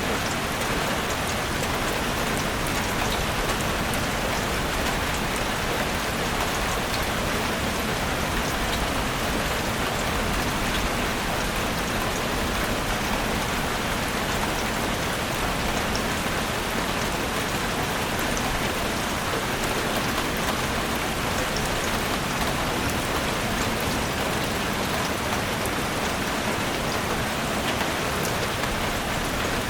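Steady rain falling in a forest, an even hiss of rain with many small drop patters on leaves, unchanging throughout.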